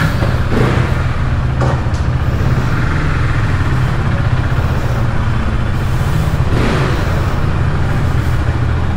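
Motorcycle engine running steadily at low revs, with the bike rolling at walking pace.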